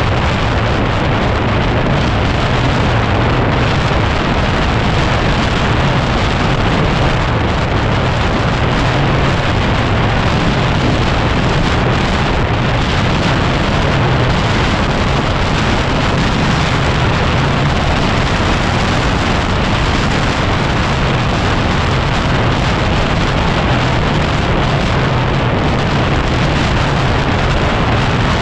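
Loud, steady wind noise on the microphone from riding at speed, over the steady running of a 2010 Yamaha WR250R's single-cylinder engine.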